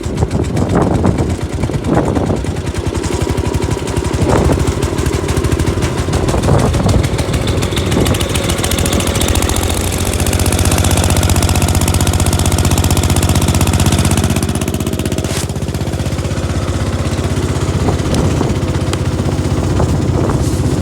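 Gravely 8163-B tractor engine running hard and loud, just after starting. Several sharp knocks come in the first eight seconds, then the engine note holds steady.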